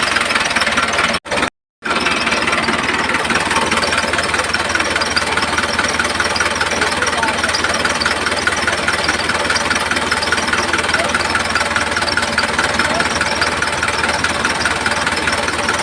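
Small motor of a homemade miniature tractor running steadily, with a fast, even rattle. It cuts out briefly about a second and a half in, then runs on unchanged.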